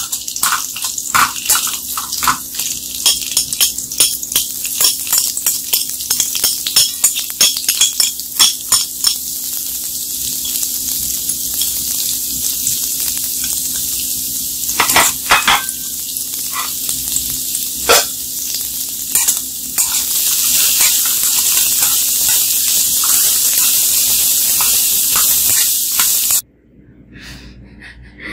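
Chicken wings sizzling as they fry in oil in a small metal wok, with a metal spoon clinking and scraping against the pan as they are stirred, the clinks thickest in the first ten seconds and a few sharper knocks later. The sizzling cuts off abruptly near the end.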